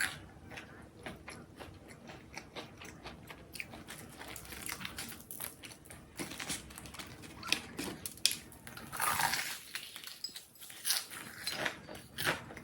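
Close-up biting and chewing of crunchy food, with many short, crisp crunches and a denser burst of crunching about nine seconds in.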